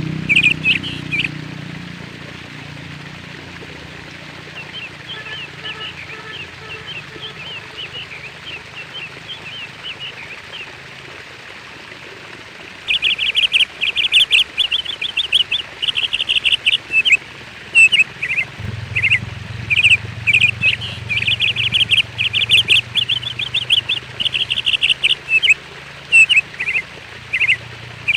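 Small birds chirping in quick runs of high notes. The chirping is sparse and faint for the first twelve seconds or so, then turns dense and loud. A low steady hum runs underneath in the last third.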